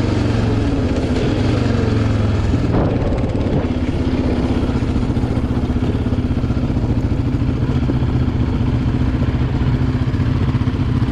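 Yamaha Raptor 700R ATV's single-cylinder four-stroke engine running, its pitch wavering for the first few seconds, then holding steady. A brief clatter comes about three seconds in.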